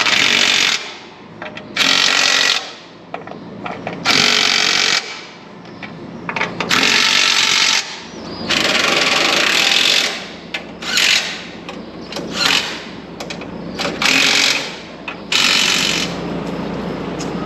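Power tool run in repeated short bursts, about eight pulls of the trigger, each lasting half a second to a second and a half with brief pauses between.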